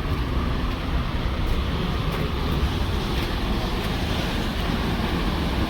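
Steady rushing of a waterfall, an even noise heavy in the low end.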